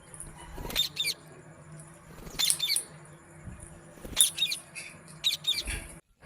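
Pet rose-ringed parakeets giving short, sharp calls every second or so, several coming in quick twos and threes. The sound cuts off abruptly near the end.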